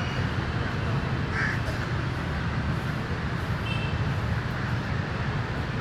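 Steady low rumble of distant traffic. A short harsh bird call comes about a second and a half in, and faint high chirps come near four seconds.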